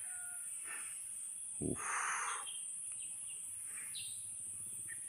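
Forest ambience: a steady high insect drone with a few faint, short bird chirps, and a brief rustle about two seconds in.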